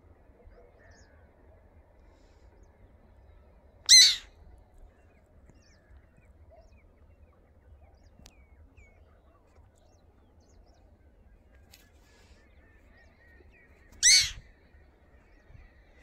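A bird overhead giving two loud, short calls, about ten seconds apart.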